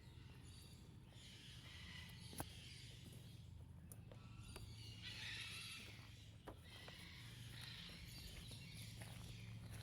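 Faint bird calls, several harsh patches of calling a couple of seconds apart, with a few sharp clicks and a steady low hum beneath.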